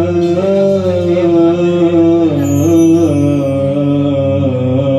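A male singer holds a long ornamented vowel in Arabic tarab style, sliding between notes, over instrumental accompaniment.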